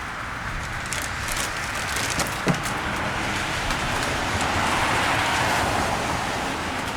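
A car passing on a wet street in the rain, its tyre hiss swelling to a peak about five seconds in and then easing, over steady rain. A few sharp ticks sound in the first half, the loudest about two and a half seconds in.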